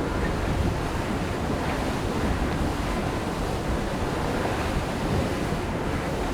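Steady rush of water along the hull of an IMOCA 60 racing yacht under sail at speed, with wind buffeting the microphone.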